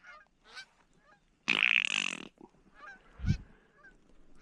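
Canada geese honking: short faint honks, then a loud raspy honk about a second and a half in that lasts most of a second. A low thump follows near the end.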